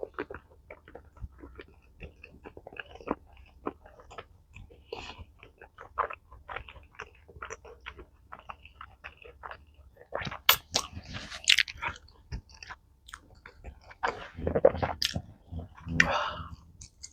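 Eating sounds: a person biting and chewing food, with many small irregular crunches and mouth clicks and louder stretches about ten and fourteen seconds in.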